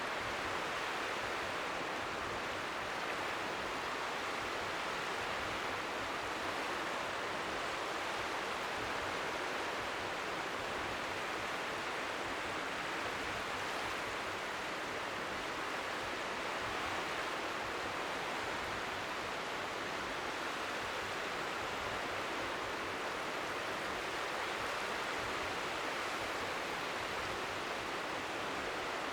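Steady, even hiss of strong wind by the sea, with gentle waves lapping faintly within it, heard as a constant layer of natural white noise.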